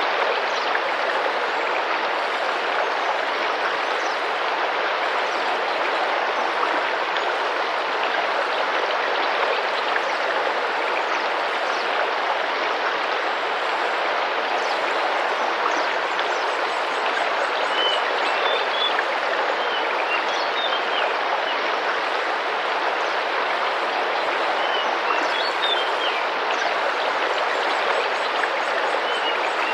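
Tropical rainforest river running and splashing in a steady even rush. Short high bird chirps come through in the second half.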